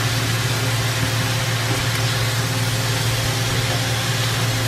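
Chicken pieces with onion and garlic sizzling steadily in a stainless steel pan over a lowered gas flame as they are stirred with a spatula, over a constant low hum.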